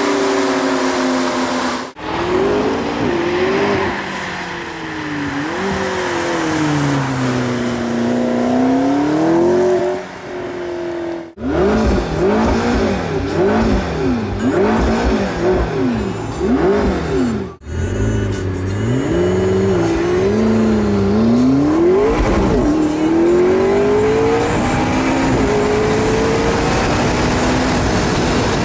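McLaren 650S Spider's twin-turbo V8 heard from inside the car under hard driving, its pitch climbing and dropping again and again as it revs up and comes off the throttle. The sound breaks off sharply for a moment three times.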